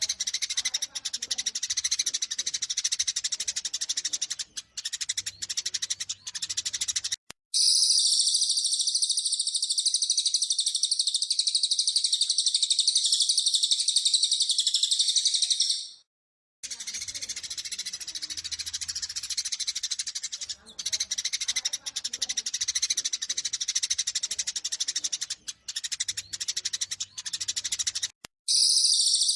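Eurasian tree sparrows' rapid, excited fighting chirps, alternating with a second recorded song, a steady unbroken high-pitched trill from a cililin. The chirping runs for about seven seconds, the trill takes over for about eight seconds, and after a short break the chirping returns, with the trill coming back near the end.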